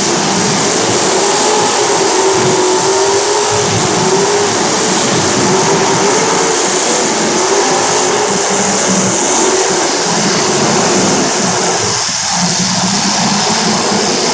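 Racing engines running during a feature race, the engine note wavering up and down as the cars speed up and slow through the laps.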